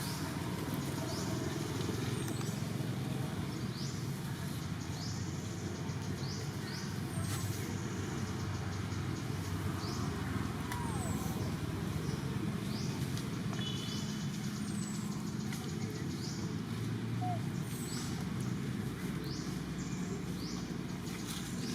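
Steady low rumble of outdoor background noise, like distant traffic, with many short, high, falling chirps scattered throughout and a few brief squeaks near the middle.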